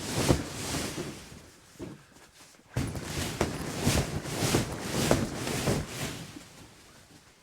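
Footsteps crunching through snow in an irregular run of strokes. There is a pause about two seconds in, then the steps resume and fade away near the end.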